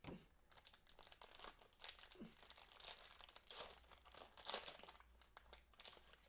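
Cellophane wrapper of a trading-card cello pack crinkling and tearing as it is opened by hand, a dense run of irregular crackles that starts suddenly.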